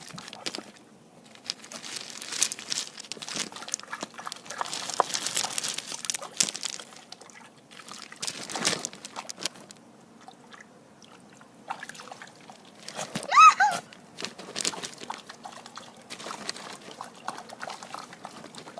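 A dog digging with its paws in shallow water, in irregular bouts of splashing, sloshing and scrabbling, busiest in the first several seconds. About thirteen seconds in there is one short high whine that rises and falls.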